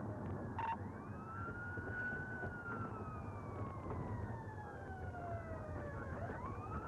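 Police car siren in a slow wail: the pitch rises, falls gradually for about five seconds, then rises again near the end, over a steady vehicle rumble.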